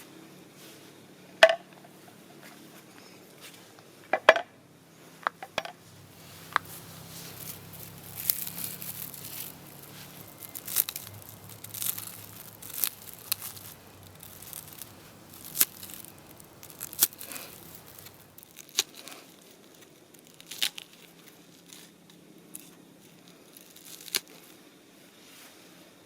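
Crinkling and rustling handling sounds with scattered sharp clicks and taps.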